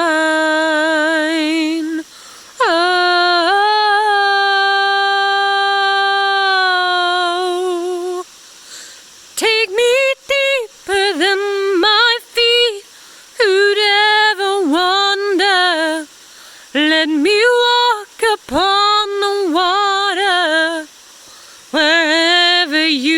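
A woman singing unaccompanied. A long note is held with vibrato for about five seconds, then she sings a string of shorter phrases with brief breaths between them.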